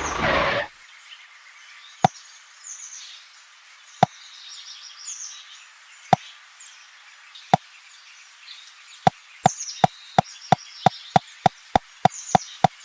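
Sharp single knocks or taps, a few seconds apart at first, then a quicker run of about three a second from about nine seconds in. Faint high chirps sound behind them.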